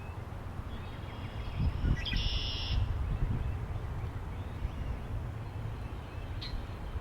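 Wind rumbling on the microphone with scattered bird calls over it: a cluster of short chirps about two seconds in and another sharp call near the end.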